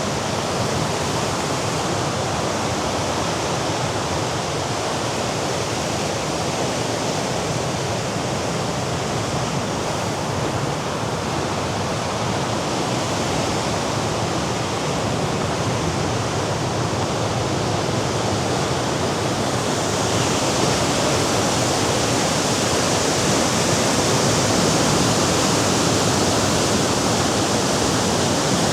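Sea surf washing against the rocks below the cliffs: a steady rushing noise that grows a little louder and brighter about twenty seconds in.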